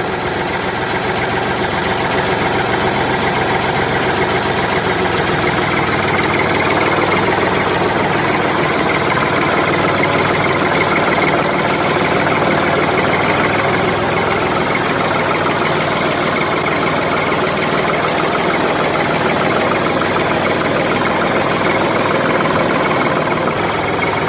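An engine running steadily at an even pace, a loud, dense mechanical drone.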